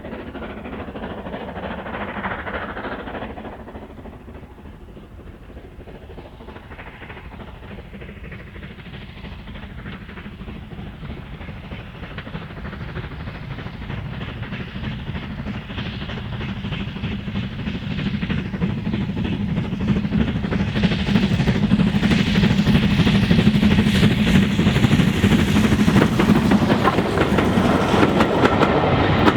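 Steam-hauled train approaching, growing steadily louder over about twenty seconds until it runs close by near the end.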